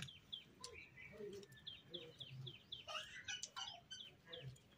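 A small bird chirping faintly in quick runs of short, high, down-flicking notes, several a second.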